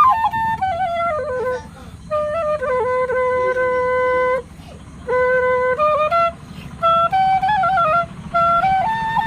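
Flute melody as background music, played in phrases with ornamented, sliding notes and some long held notes, over a faint low hum.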